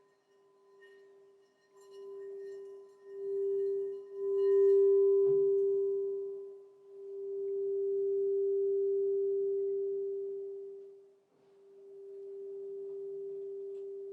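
Crystal singing bowl ringing one steady note that swells and fades several times, with a brief light knock about five seconds in.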